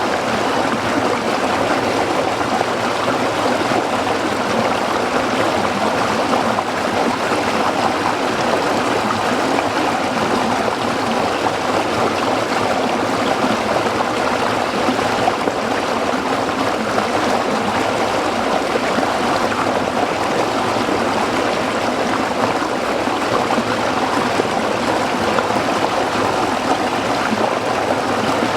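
A small stream flowing and splashing over rocks, a steady, unbroken babbling rush of water.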